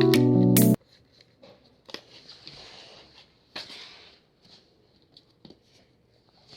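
Background music that cuts off suddenly about a second in, then faint, scattered rustling of sheet paper being handled, with a few soft clicks.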